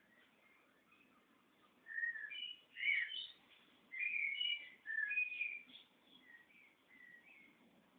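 A small songbird singing: four bursts of quick, high chirps and whistled notes between about two and six seconds in, with fainter chirps before and after.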